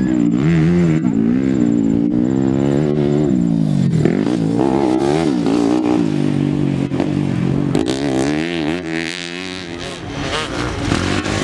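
Motocross dirt bike engines revving, their pitch repeatedly rising and falling as the throttle opens and closes.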